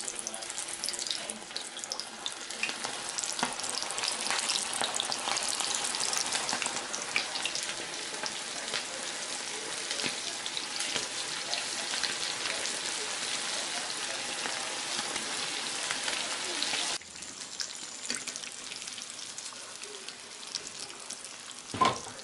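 Chicken frying in hot oil, a dense crackle and sizzle. About seventeen seconds in it drops abruptly to a quieter sizzle, and a short clunk comes near the end.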